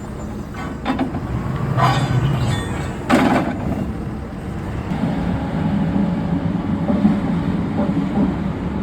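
Heavy diesel truck engine running steadily with a low hum, with two short clatters about two and three seconds in.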